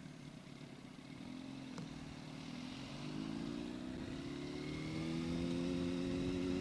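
Yamaha R1 sport bike's inline-four engine, low at first, then climbing steadily in pitch and getting louder as the bike accelerates from about two and a half seconds in.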